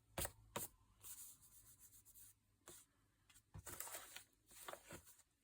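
Faint rustling and handling of paper on a tabletop, with a few light taps near the start and soft rustles later on.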